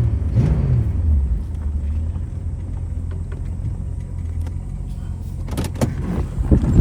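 1966 Ford Mustang's 289 V8 running under way with a steady low rumble, with a few sharp knocks near the end.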